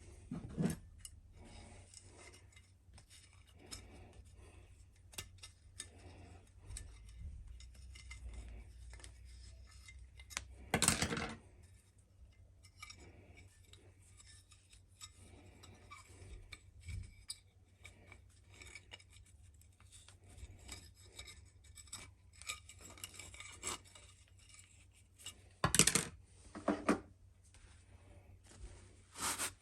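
Irregular scraping and rubbing as a cobbler's hammer, fresh from an electrolysis rust-removal bath, is scrubbed clean by hand. There are two louder knocks, one about eleven seconds in and one a few seconds before the end.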